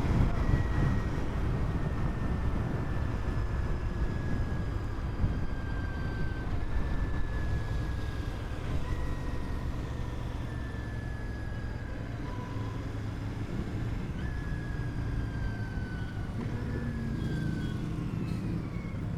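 Motorcycle being ridden, with a steady low engine-and-road rumble. A thin whistling tone falls slowly in pitch several times over it.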